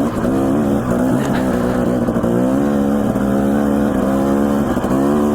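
Dirt bike engine running on a trail ride, its pitch rising and dipping with the throttle, holding steady for a couple of seconds in the middle, then climbing again near the end.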